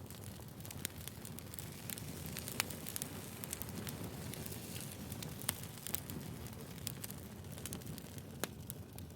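Firewood burning: a steady low rush of flames with frequent sharp crackles and pops at irregular moments.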